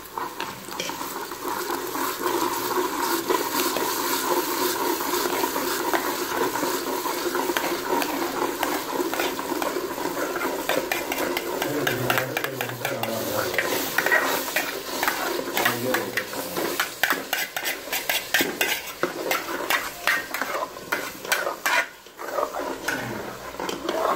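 Metal spoon scraping crushed tomato out of a steel pan into hot oil and browned onion in a pressure cooker, then stirring. The mixture sizzles as it fries, with many quick scrapes and clinks of the spoon against the metal.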